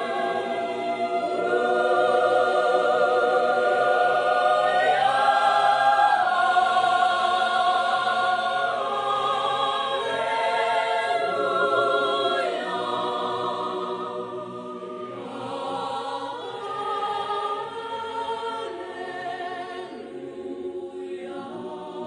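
Choir singing in harmony, holding long chords that change every second or two, growing softer over the second half.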